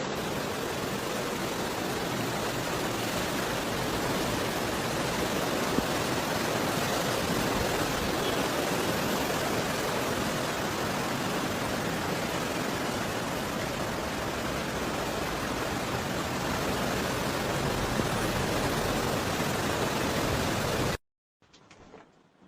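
Floodwater rushing through a street as a steady, even roar of water noise that cuts off suddenly near the end.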